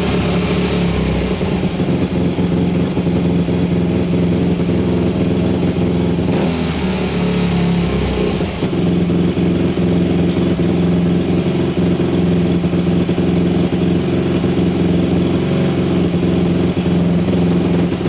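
2004 Yamaha YZ250F's four-stroke single-cylinder engine running steadily on its freshly rebuilt bottom end, its new crank replacing one with a seized rod bearing. About six seconds in, the pitch wavers and dips briefly before settling back to a steady run.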